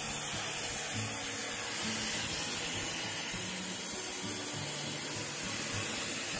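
Handheld hair dryer blowing in a steady airy rush, heating heat-shrink tubing on an RC car's driveshaft.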